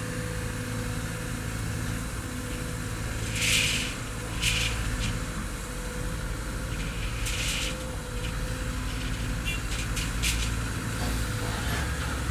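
Excavator diesel engine running steadily, with a few short hisses about a third and halfway through.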